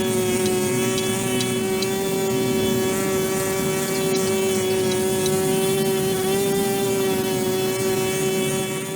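A motor running steadily with a constant droning hum and a whine of many overtones, fading out right at the end.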